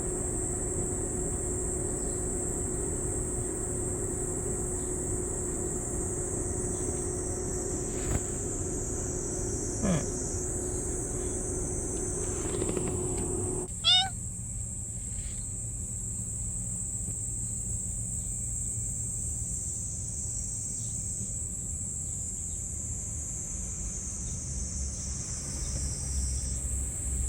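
A stray cat meows once, briefly, about halfway through. Under it runs a steady low hum that drops away at the same moment, and a constant high-pitched hiss.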